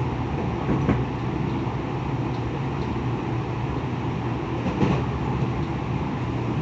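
Tokyo Metro 10000-series electric train running steadily, heard from inside the car: a continuous rumble of wheels on rail, with a brief sharper knock about a second in and another near five seconds.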